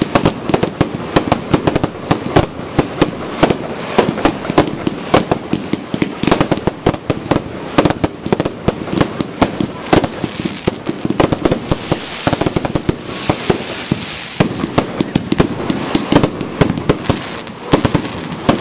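Fireworks display: a dense, unbroken run of sharp bangs and cracks from exploding fireworks, with a stretch of crackling hiss from about ten to fifteen seconds in.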